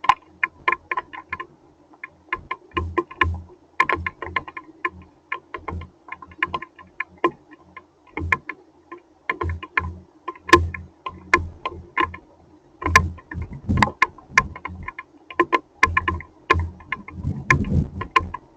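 Hailstones striking a hard surface in an irregular patter of sharp clicks and knocks, some with a deeper thud.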